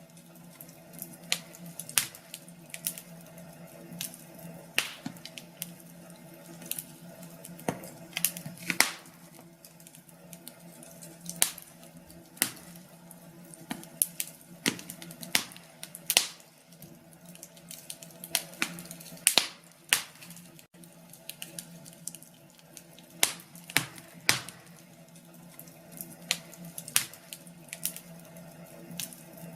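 Wood fire burning in a fireplace, crackling and popping irregularly, with sharp pops every second or so, over a faint steady hum.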